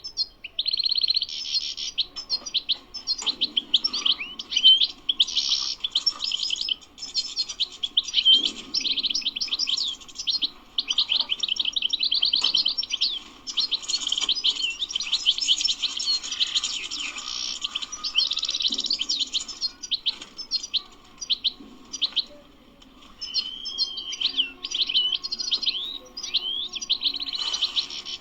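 European goldfinch singing: long runs of fast twittering notes and trills, with a brief break about three-quarters of the way through.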